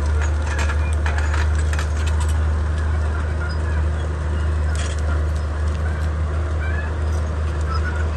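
Komatsu D31P bulldozer's diesel engine running steadily with a deep hum, with a run of sharp clatters and cracks in the first two seconds and another about five seconds in. Short high chirps, like birds or poultry, come and go over the engine.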